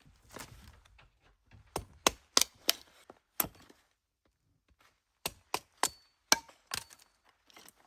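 A series of sharp knocks and cracks, about ten in two bursts, each one short and separate.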